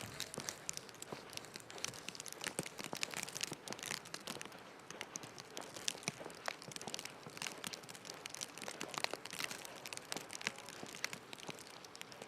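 Dense, irregular crackling and crinkling, many small ticks a second with no steady beat.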